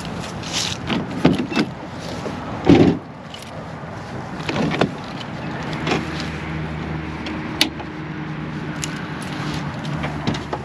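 A vehicle door shuts with a thud about three seconds in, cutting off the outdoor air noise, followed by clicks and rustling inside the cab. Then a pickup truck's engine runs steadily with a low hum.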